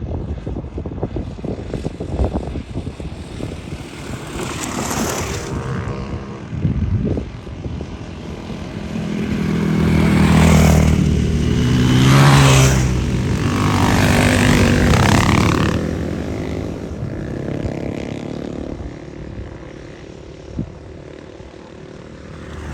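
Dual-sport motorcycle engines running, swelling to their loudest for several seconds in the middle with the pitch sweeping up and down as bikes pass, then fading back to a steadier engine noise.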